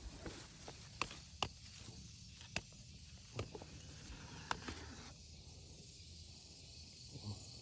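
Scattered sharp snaps and crackles, like dry twigs and leaves underfoot or brushed aside, over a steady high hiss. The snaps come thick for about five seconds, then only one or two.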